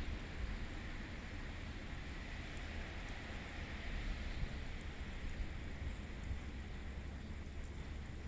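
Steady outdoor wind noise in a snowstorm: a low rumble of wind on the microphone under an even hiss.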